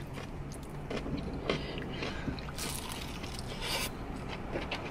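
Close-up eating sounds of crispy fried chicken wings being bitten and chewed: irregular crunches, mouth clicks and smacks, a few louder crunches in the middle. A low steady hum runs underneath.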